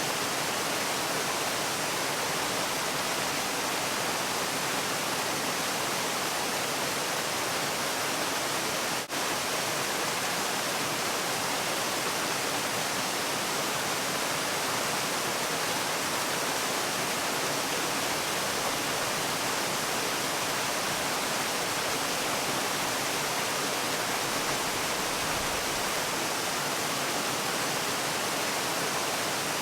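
Steady, dense rush of a waterfall, with a momentary dropout about nine seconds in.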